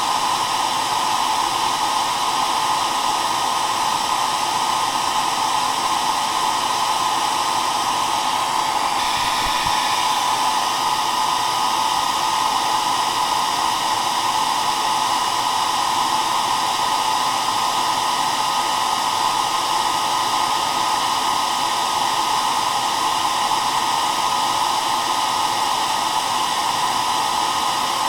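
Hair dryer running steadily: an even rush of blown air with faint steady motor tones under it, unchanging throughout.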